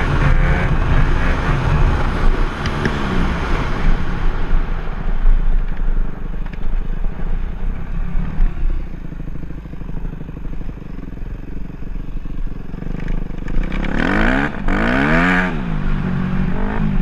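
Dirt bike engine running and revving up and down, with two quick rev swells near the end.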